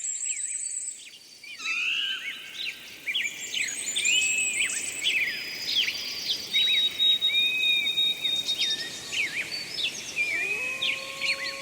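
Several songbirds chirping and trilling together, with one long, high, steady whistle in the middle. Near the end a wolf begins a long howl that rises and then holds steady.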